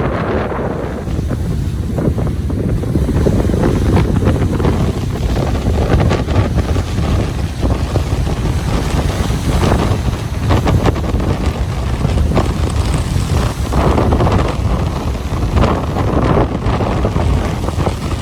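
Ocean surf washing onto a beach, with wind buffeting the microphone in a heavy, fluctuating rumble that is the loudest part.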